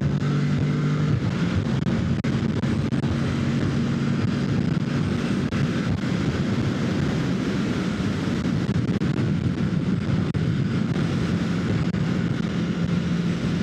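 Kawasaki Ninja 650's parallel-twin engine running at a steady cruise under heavy wind rush on the helmet microphone. The engine's steady note stands out for about the first second and again near the end, with the wind covering it in between.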